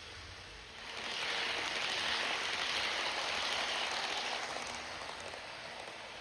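Passing Amtrak passenger train: a steady hiss of wheels on rail and rushing air that swells about a second in and fades over the last couple of seconds.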